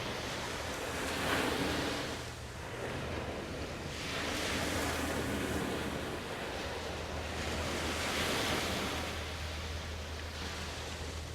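Waves washing in, a noisy surge that swells and ebbs three times, about every three to four seconds, over a steady low hum.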